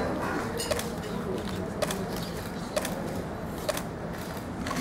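Still-camera shutters firing in scattered single clicks, about one or two a second, over steady room noise.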